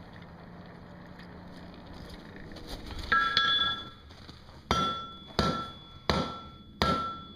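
Hand hammer forging a hot steel bar on an anvil, drawing the bar end to a point to start a scroll. A steady hiss comes first, then two quick blows, then four even blows about three quarters of a second apart, each leaving a short ringing tone.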